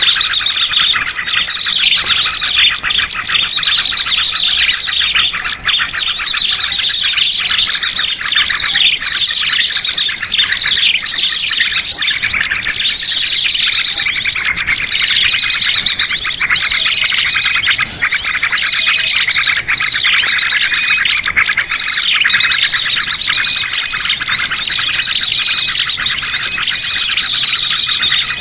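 A dense, unbroken chorus of many small birds' rapid chirps and trills at a steady high level: a bird-lure (master pikat) recording used to draw birds into a trap.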